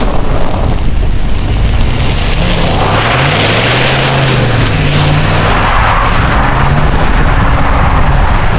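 Ram 1500 pickup's engine revving up and down while its tyres spin and slide on snow, with a hissing rush of wheelspin in the middle of the stretch.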